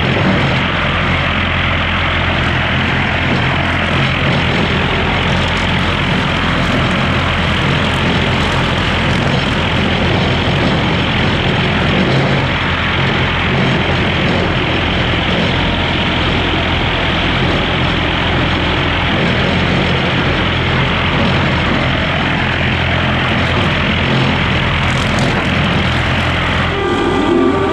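Skid steer's diesel engine running steadily at working throttle, driving a brush hog rotary cutter through grass and brush. Near the end the sound changes and a whining tone comes in.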